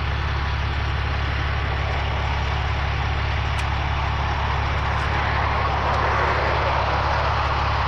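Tow truck engine idling steadily, a low even hum.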